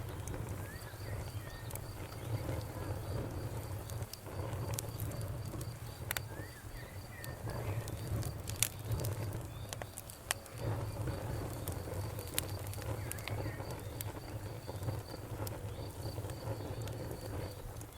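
Wood fire crackling, with scattered sharp pops over a steady low rumble; the loudest pop is about halfway through. A steady, pulsing high chirping of insects goes on behind it.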